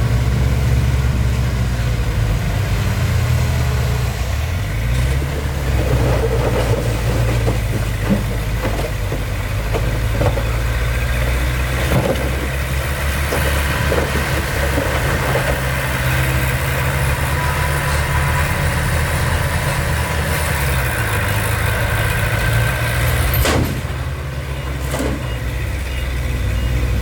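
Heavy construction machine's diesel engine running at a low, steady pace, its pitch rising and falling a little as the revs change, with a few sharp knocks now and then.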